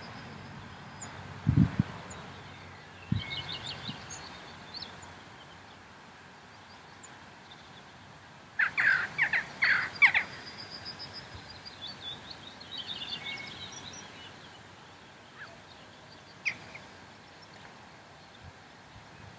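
Wild birds singing and calling in open country: scattered high chirps and trills, with a burst of loud calls about halfway through. Two low thumps sound in the first few seconds.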